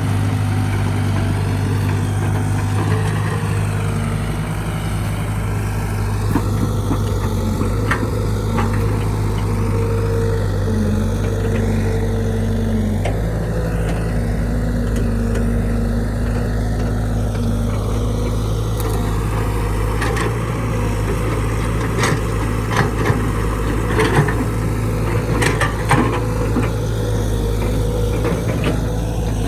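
Excavator's diesel engine running steadily, with steady higher whines that step up and down in pitch in the first half. A series of sharp knocks and clanks comes in the last third.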